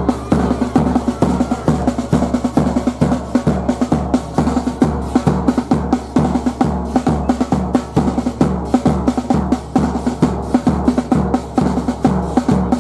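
Drums beaten in a fast, steady rhythm: a deep bass-drum beat about twice a second with quicker, sharper hits in between.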